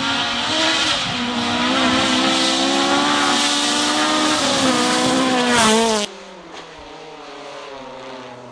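Rally car engine at high revs on a gravel stage, its pitch rising and dipping with throttle and gear changes. About six seconds in the loud engine cuts off abruptly, leaving a quieter engine whose pitch slowly falls.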